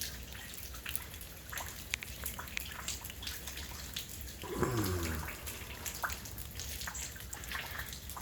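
Drizzle and meltwater dripping, with irregular drops ticking on hard surfaces. About halfway through, a short pitched sound falls steeply in pitch for under a second.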